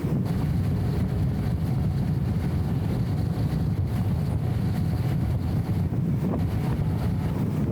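BMW E34 M5 Touring driving along, heard as a steady, muffled low rumble of engine and road noise, dulled by the camera's anti-wind audio filter.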